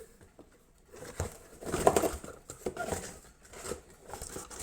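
Rummaging through a cardboard motherboard box: a run of light knocks, rustles and crinkles of cardboard and packaging, starting about a second in.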